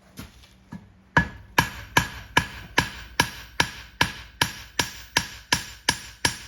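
Farrier's clipping hammer striking a hot steel horseshoe on the anvil to draw out a toe clip: two light taps, then about a dozen sharp, ringing blows at a steady pace of roughly two and a half a second.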